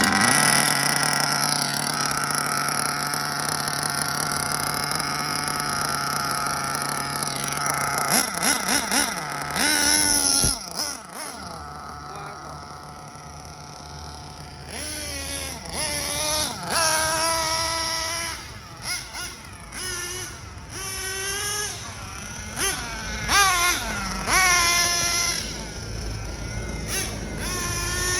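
Nitro engine of a Hobao Hyper VS RC buggy running during break-in. It holds a steady pitch for the first eight seconds or so, then revs repeatedly, its pitch rising and falling, with a quieter stretch in between.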